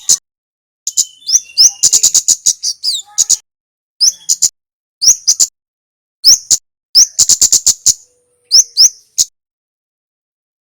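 Male kemade (kemlade merah) calling in quick clusters of sharp, very high chips mixed with short rising notes, broken by brief pauses; the calls stop about a second and a half before the end.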